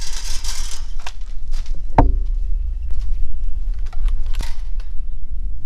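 Footsteps and scattered clicks of someone walking, over a steady low rumble, with a short hiss at the start and one sharper knock about two seconds in.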